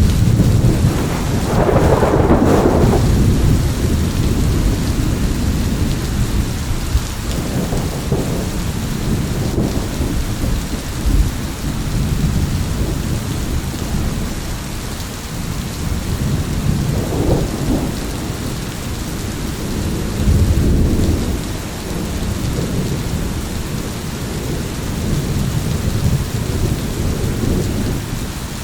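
Thunderstorm: steady heavy rain with rolling thunder rumbling underneath, the strongest peal about two seconds in and further rumbles swelling around eight, seventeen and twenty seconds in.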